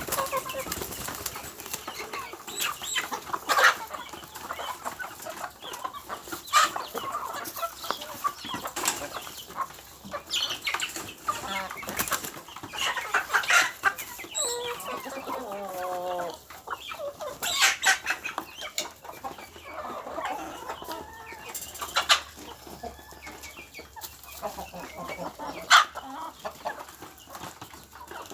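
Chickens clucking, with short sharp knocks and rustling scattered throughout, and one wavering call about halfway through.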